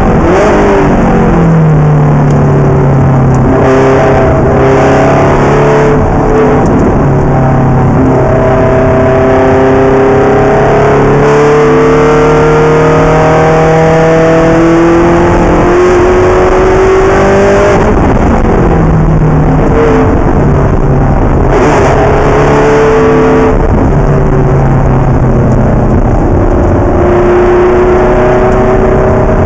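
Ferrari race car engine running very loud under load. Its pitch climbs slowly through long pulls and drops sharply at gear changes, about a second in and again about two-thirds of the way through, over heavy road and wind noise.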